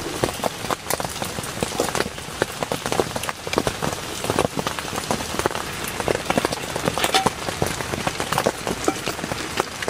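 Heavy rain falling, with a dense, irregular patter of drops striking a surface close by.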